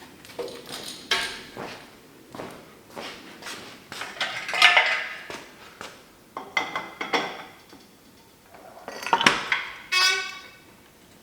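Steel chain being handled and moved on metal trailer landing gear, its links clanking and rattling in irregular bursts, with a ringing metallic clank about nine seconds in.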